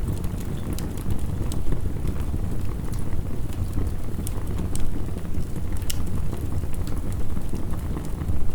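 Wood fire crackling with scattered sharp pops, over a steady low rumble of heavy rain.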